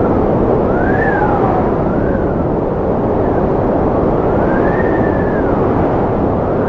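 Strong wind blowing steadily, with whistling tones that rise and fall in pitch every second or two.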